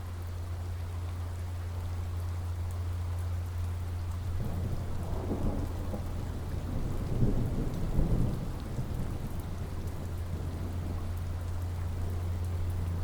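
Steady rain falling, with a low, rolling rumble of thunder that swells about a third of the way in, peaks near the middle and fades away.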